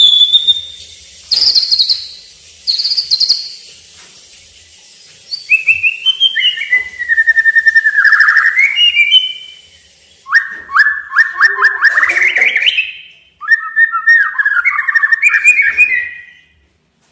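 A white-rumped shama (murai batu) singing a varied series of loud whistled phrases. Short high notes give way to gliding whistles, then a rapid run of notes that rises in pitch, then more changing phrases.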